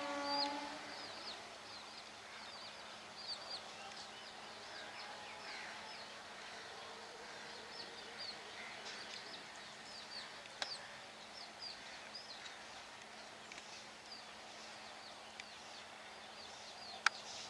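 A train horn sounds a steady multi-tone blast that cuts off within the first second. After it, small birds chirp over a faint outdoor hiss, with two sharp clicks, the louder one near the end.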